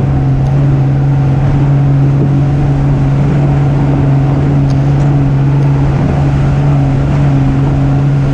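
Truck engine running at a steady speed, a loud even drone that holds one pitch throughout.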